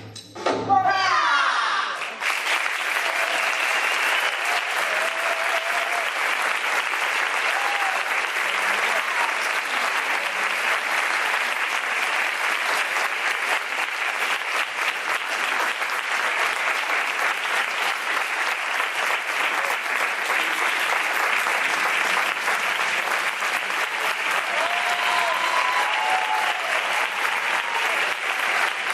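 Audience applauding steadily after a song ends, with a few voices calling out over the clapping. The last notes of the song fade out in the first two seconds before the applause takes over.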